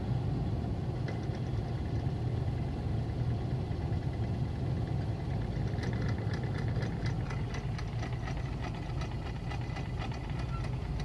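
Car engine running steadily at low revs, heard from inside the cabin as the car creeps forward. From about six seconds in, a run of light clicks and rattles sits on top of the engine hum.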